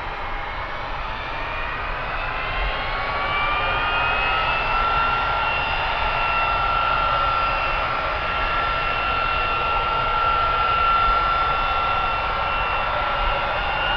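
Business jet's turbofan engines spooling up. A whine rises in pitch and loudness over the first few seconds, then holds steady over a broad roar.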